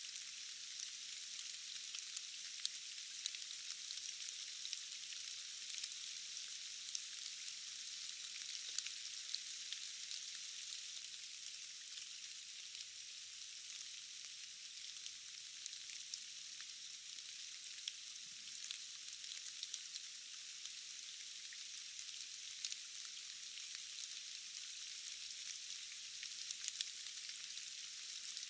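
Steady forest rain: a continuous thin hiss with many small drop ticks scattered through it, and no low end at all.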